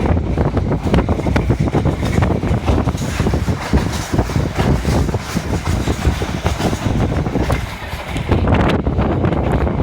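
Passenger train running along the track, its carriage rumbling with a dense, continuous clatter of knocks and rattles, and wind buffeting the microphone.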